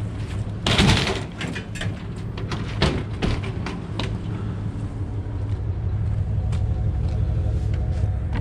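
Aluminum scrap being pulled loose and handled: a loud scraping clatter about a second in, then several knocks of metal against metal. A steady low engine hum runs underneath.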